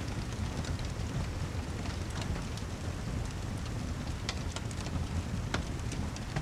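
Steady heavy rain ambience with a low rumble underneath. Scattered sharp crackling ticks stand out about two, four and five and a half seconds in.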